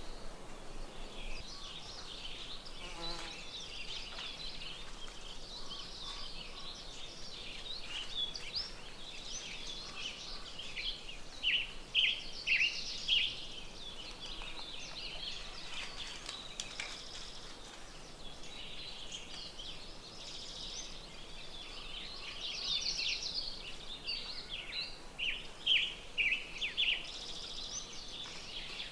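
Several birds singing and calling together, a busy mix of chirps, trills and quick falling whistled notes. A louder run of falling notes comes about twelve seconds in and again near the end.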